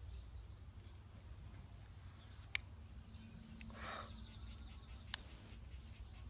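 Two sharp pops about two and a half seconds apart, like wood popping in a campfire being built, over quiet outdoor ambience with faint high chirping and a brief rush of noise between the pops.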